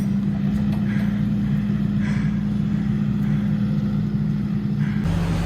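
Skid steer engine running steadily at high throttle while working a load, with a few light clanks. Its engine note drops slightly near the end.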